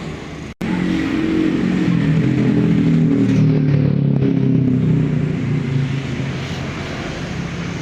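Street traffic: a motor vehicle engine passing close by, swelling for a few seconds and then easing off, after a brief cut in the sound about half a second in.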